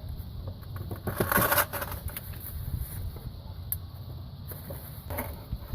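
Plastic quick-connect fitting on a vapor hose being handled and pushed back onto its port: a short scraping rustle about a second in, light plastic clicks, and another scrape near the end.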